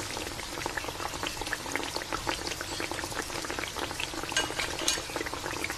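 Braising sauce simmering around a whole chicken in a wok on a gas burner: steady bubbling with many small pops.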